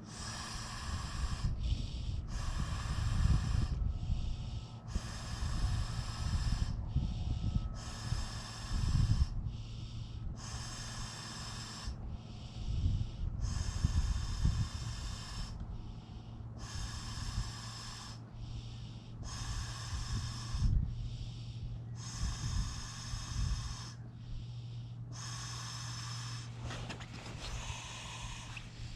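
A person blowing air by mouth into the valve of a self-inflating camping mattress to top it up: a steady run of long breathy puffs, each about a second long, with short breaths taken in between.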